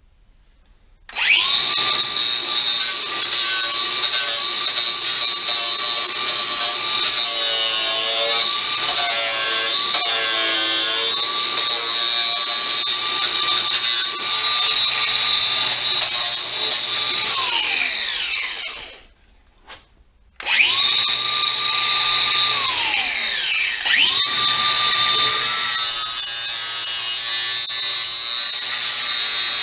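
Power tool driving a flap wheel, grinding a steel tab off a car's inner wheel arch. It spins up about a second in and runs with a steady whine over the grinding hiss, winds down with a falling pitch, stops for a moment, then starts up again and grinds on.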